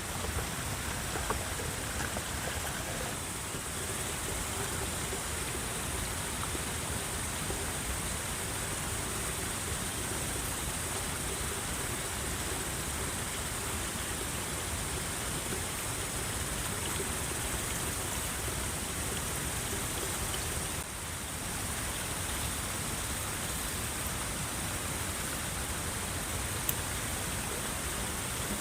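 Steady rushing noise of water, with a brief dip in level about two-thirds of the way through.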